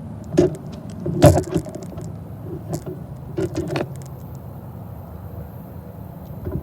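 Freight train cars rolling past on the rails with a steady low rumble and a run of sharp metallic clanks and rattles in the first four seconds, then the rumble alone.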